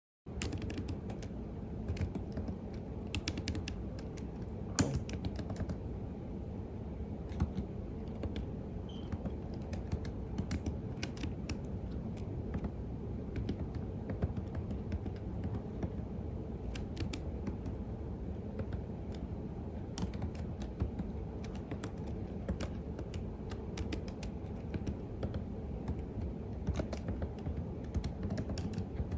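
Computer keyboard being typed on continuously: an even, unbroken stream of key clicks and keystrokes, starting abruptly right at the beginning.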